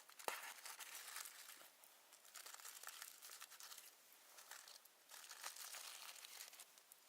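Crinkling and rustling of handled material in irregular bursts, with a sharper crackle about a quarter second in.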